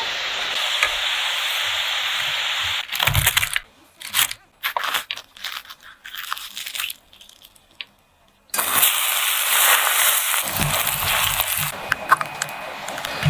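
Balls deep-frying in hot oil, a steady sizzle. About three seconds in, it gives way to a run of crisp crunches and cracks as a fried ball with a crunchy hollow shell is torn open by hand. From about halfway, a steady hiss returns, and liquid is poured near the end as soy sauce goes into a bowl of chopped scallion and garlic.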